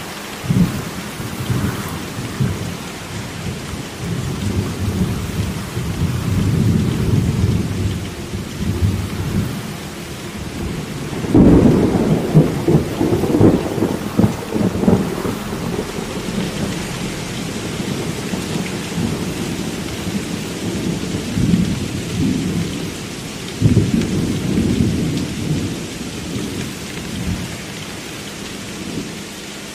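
Rolling thunder rumbling over steady rain. The loudest roll begins sharply about eleven seconds in, and another strong peal comes in about two thirds of the way through.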